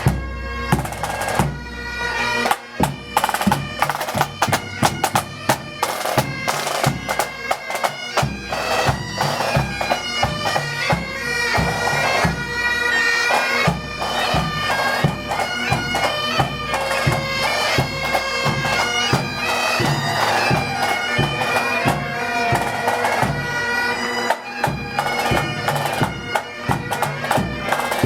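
Pipe band playing: bagpipes carry a tune over their steady drone, with snare and bass drums beating a marching rhythm.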